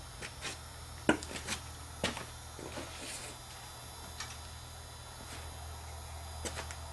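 A few light knocks and clicks of scrap-iron pieces being handled and set in place as a corner brace, over a steady low hum. The two strongest knocks come about one and two seconds in.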